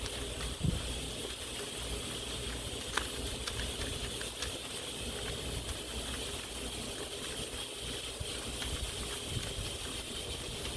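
Steady background hiss with a low rumble, and a few soft clicks and rustles of Bible pages being leafed through.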